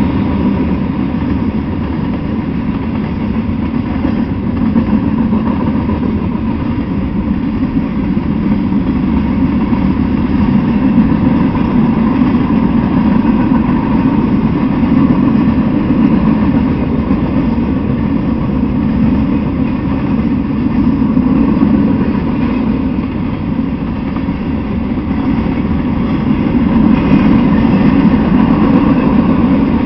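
Freight train cars rolling past at speed: a steady, loud noise of steel wheels running on the rails that swells and eases slightly as the cars go by.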